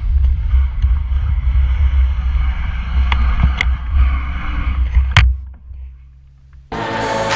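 Steady low rumble of vehicle and wind noise while riding, cut off by a sharp click about five seconds in. After a brief lull, music starts near the end.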